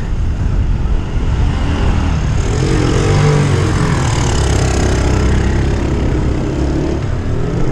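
Wind buffeting the microphone while riding a bicycle, with a motor vehicle's engine passing close by; its note rises and falls from about two and a half to seven seconds in.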